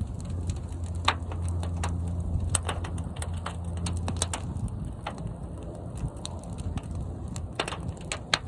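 Fire burning in a large kiln: a low, steady rumble, stronger in the first half, with many sharp crackles and pops scattered throughout.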